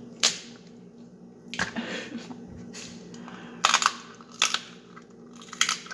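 Crab leg shells being cracked and broken open by hand and mouth: several sharp, separate cracks and snaps, bunched together a little past the middle, with chewing between them.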